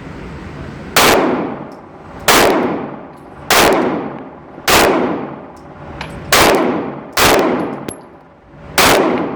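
Seven shots from a Springfield XD 9mm compact pistol, fired singly at an uneven pace of roughly one a second, each ringing out for about a second after the crack.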